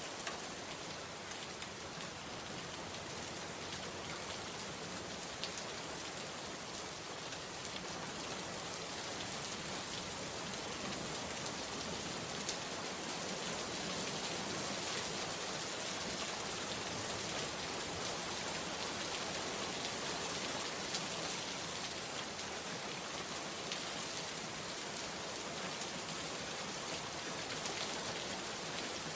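Steady rain falling, with the hiss of the downpour and scattered individual drops ticking on a surface.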